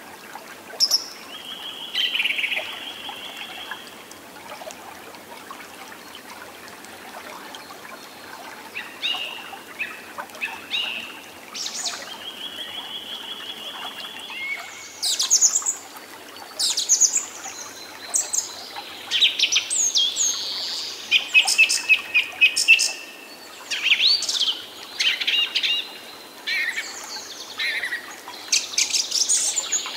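Several songbirds singing and chirping: short chirps, quick sweeping calls and rapid trills. The calls are sparse at first and grow busy about halfway through, over a faint steady hiss.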